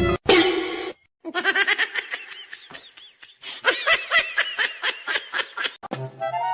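Laughter: after a short sound at the start, a long run of quick, high laughing pulses that stops about six seconds in.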